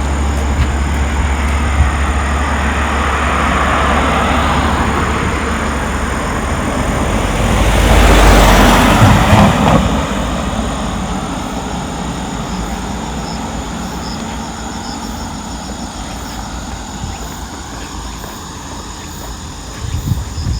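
A motor vehicle passes close by, its noise swelling to a peak about eight seconds in and then fading away, over a low steady rumble that dies down after it passes.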